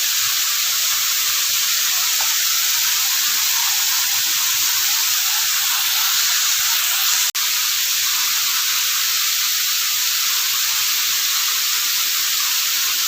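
Steady rushing hiss of a jungle waterfall's falling water, with a momentary cut-out about seven seconds in.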